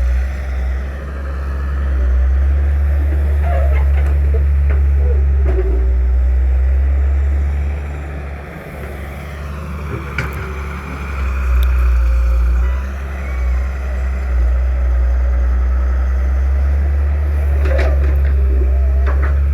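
Heavy diesel machinery engine running with a steady low drone. It eases off about eight seconds in and picks up again around eleven seconds, with a few short knocks.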